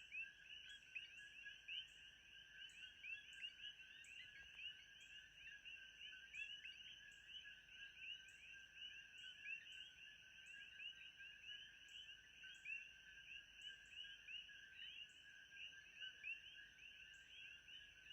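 Faint, steady frog chorus: many short rising chirps overlapping densely, with a thin steady high tone and faint high ticks about twice a second.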